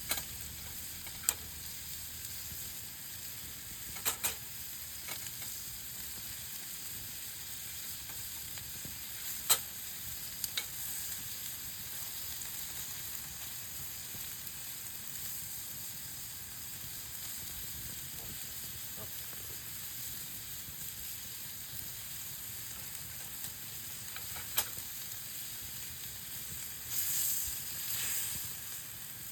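Meat sizzling over a campfire, a steady hiss with sharp pops every few seconds. Near the end the sizzle swells louder twice.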